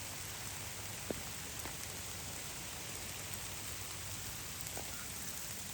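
Steady rain falling, an even hiss with a few single drops ticking out above it, one about a second in.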